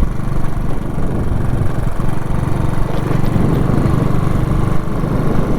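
Motorcycle engine running steadily while on the move.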